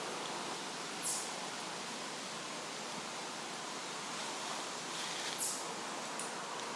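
Steady outdoor background hiss, with two brief, faint rustles of climbing gear being handled as a rescue line is rigged, about a second in and again about five and a half seconds in.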